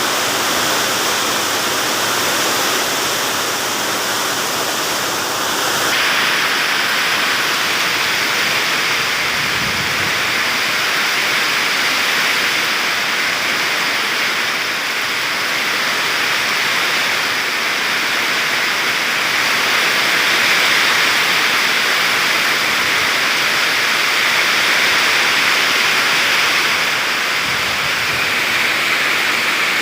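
Heavy storm rain pouring down with strong wind, a steady loud rushing hiss.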